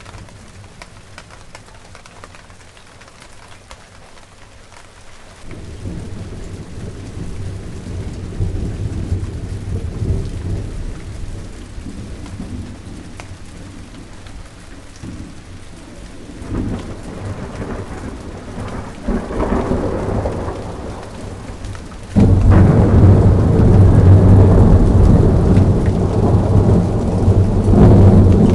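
Steady rain falling, joined about five seconds in by rolling thunder that swells and eases, then breaks suddenly into a much louder, sustained rumble about three-quarters of the way through.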